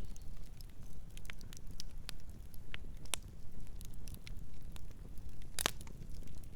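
Campfire burning: wood crackling with irregular small pops and snaps over a low steady rumble, and one louder pop near the end.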